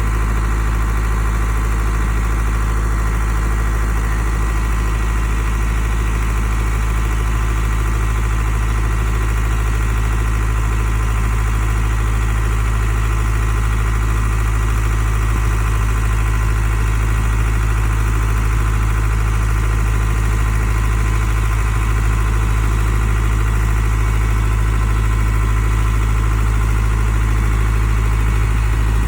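Isuzu dump truck's diesel engine running steadily at a constant low speed, a deep even hum.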